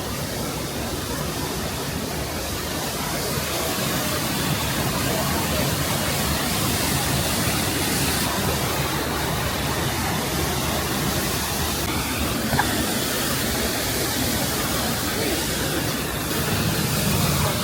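Steady rushing of water from a waterfall, getting a little louder about four seconds in.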